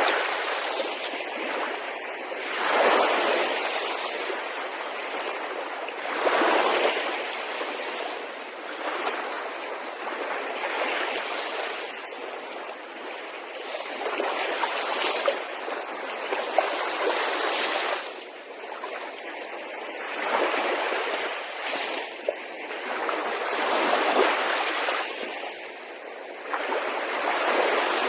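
Sea waves washing in, the noise swelling and falling back in surges every three to four seconds.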